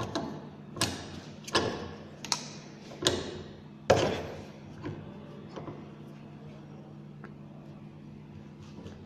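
A series of six sharp knocks about three-quarters of a second apart, the last the loudest, then two fainter ones, over a steady low hum.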